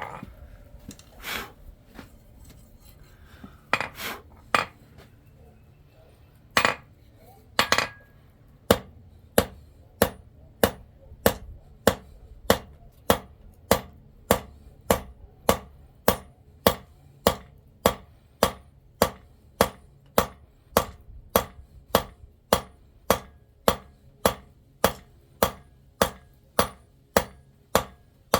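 Hand hammer striking metal on an anvil while forging silver: a few scattered knocks at first, then from about nine seconds in a steady rhythm of blows, just under two a second, each with a brief metallic ring.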